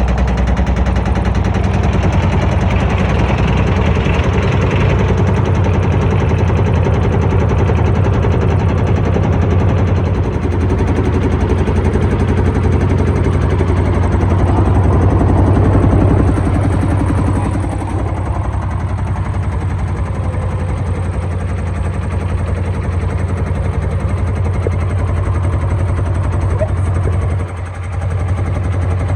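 Beko WTG941B2W washing machine running hard, with a steady low motor hum and rapid rattling and banging from its loaded drum. The sound eases somewhat about 17 seconds in and dips briefly near the end.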